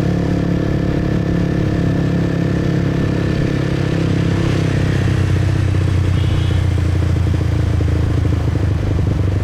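Motorbike engine running steadily beneath the rider as he rides. Its note shifts to a lower, stronger hum about halfway through.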